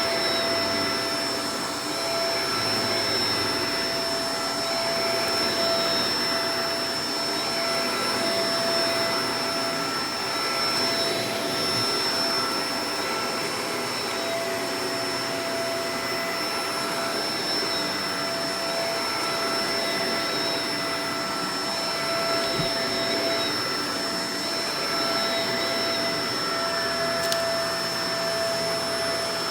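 Shark Professional Powered Lift-Away DLX (NV586) upright vacuum cleaner running steadily: a rushing of air with a steady high motor whine on top.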